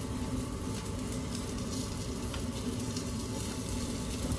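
Egg-coated chicken shami kababs sizzling in a tablespoon of oil on a non-stick tawa: a steady frying crackle over a low steady hum.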